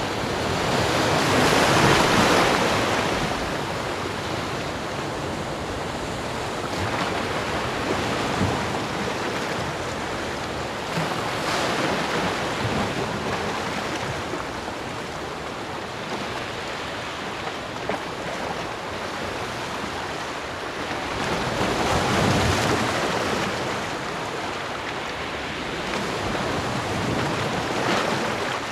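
Ocean waves breaking and washing up a beach, a steady surf noise that swells louder as larger waves break about two seconds in, again past the twenty-second mark and near the end.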